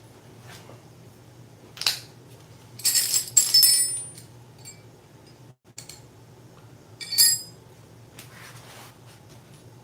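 Metal hand tools clinking as they are picked up and handled: one clink about two seconds in, a rattling cluster of clinks around three to four seconds in, and another clink a little after seven seconds.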